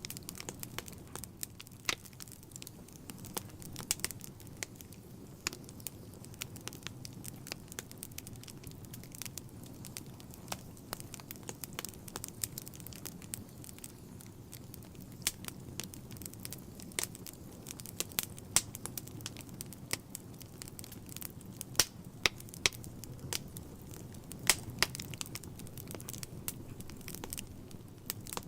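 Wood fire burning in a fireplace: a steady low rumble of flames with frequent irregular crackles and sharp pops, some much louder than the rest.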